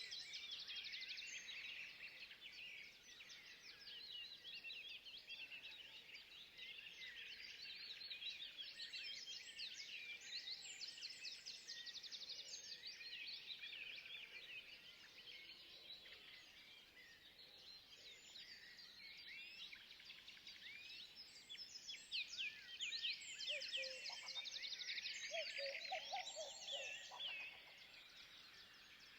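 Faint chorus of many small birds chirping and singing at once, a dense run of rapid high notes. Partway through, a lower warbling call joins for a few seconds.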